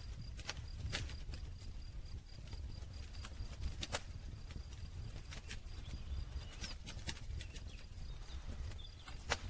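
Campfire crackling: irregular sharp pops and snaps of burning wood over a steady low rumble, with the loudest snap near the end.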